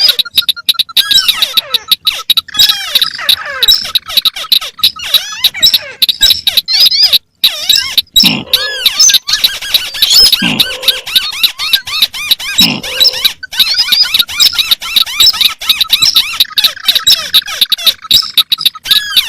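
Several crakes, white-browed crake among them, calling at once on a bird-lure recording: dense, overlapping squeaky chattering and chirping, with three deeper falling calls near the middle.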